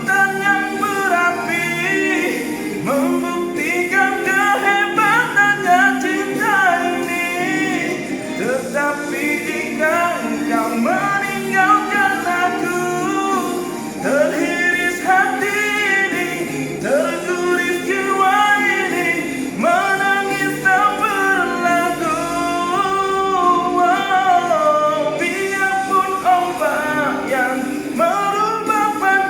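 A solo voice singing a melody with wavering held notes over musical accompaniment.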